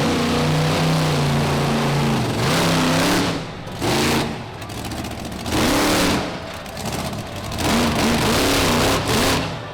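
Monster truck engine revving hard, its pitch rising and falling again and again in surges with the throttle.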